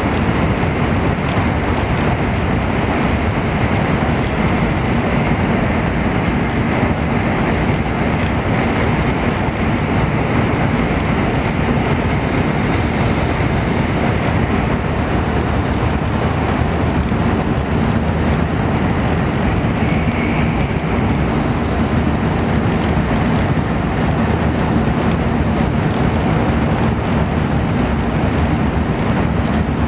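Steady running noise of a Shinkansen train at speed, heard from inside the passenger cabin: a dense, even rumble and rush of wheels, track and air, with a faint high whine that fades out about halfway through.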